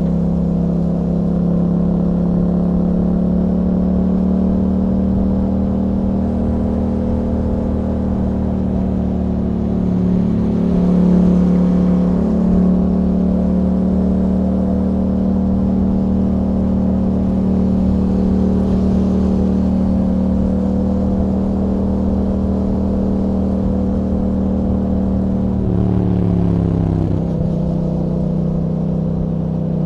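Yamaha MT-07's 689 cc parallel-twin engine through an Akrapovic exhaust with a dB killer, running at a fairly steady engine speed while riding. The note swells slightly about ten seconds in, and about 26 s in the pitch briefly dips and shifts before settling again.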